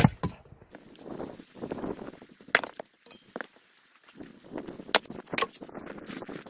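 Firewood being split with an axe: one heavy blow into a log right at the start, then several lighter sharp knocks and clinks with rustling between.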